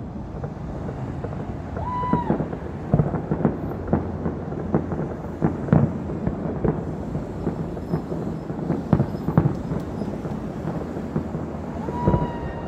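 Fireworks going off: a series of sharp bangs and crackles over a steady low rumble, thickest in the middle. A short high tone that rises, holds and falls sounds twice, near the start and near the end.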